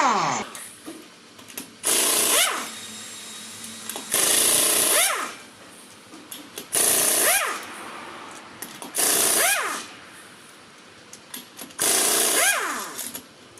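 Impact wrench hammering in five short bursts, each about half a second long and two to three seconds apart, each ending in a brief rising whine: bolts being loosened on the front end.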